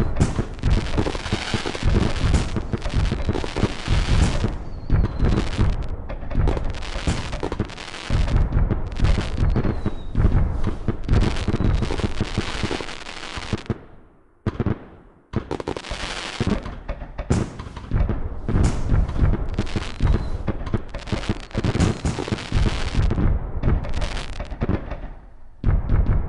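Fireworks going off in a rapid, nearly continuous barrage of bangs and crackle, with a brief lull about halfway through.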